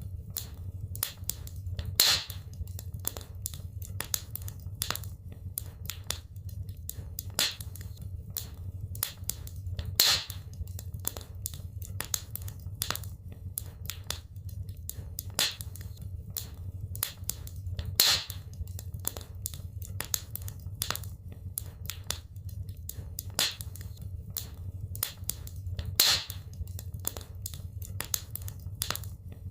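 Wood fire crackling in a fireplace: a dense run of small crackles with a louder pop about every eight seconds, over a low steady rumble.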